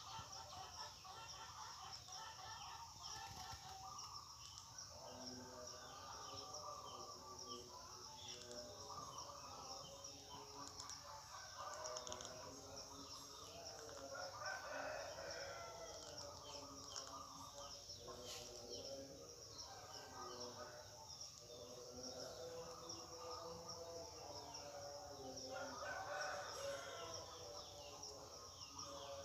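Zebra doves cooing, repeated pitched calls one after another throughout, over a steady high hiss.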